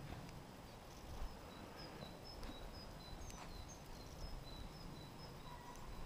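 Quiet outdoor ambience with a small bird repeating short, high notes that alternate between two pitches, a few a second, starting a little over a second in and stopping near the end.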